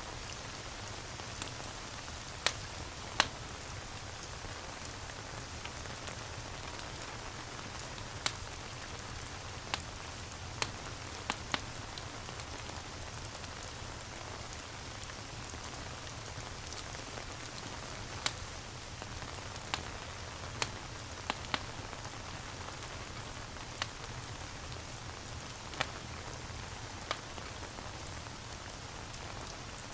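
Rain and fireplace ambience: a steady hiss of falling rain with a low rumble under it, broken by sharp, irregular pops of a crackling log fire, about one every couple of seconds.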